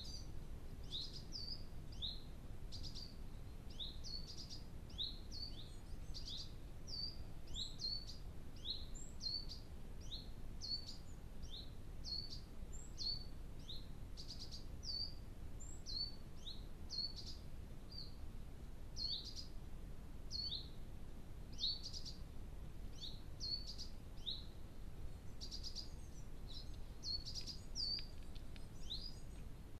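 A small songbird calling over and over, a short high note that falls in pitch, repeated about once a second, over a steady low background rumble.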